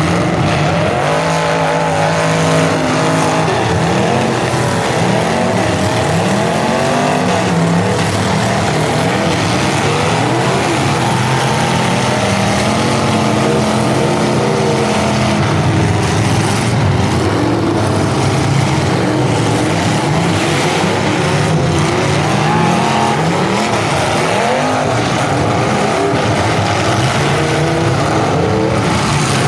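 Engines of several full-size demolition derby cars running and revving at once, their pitches rising and falling over one another.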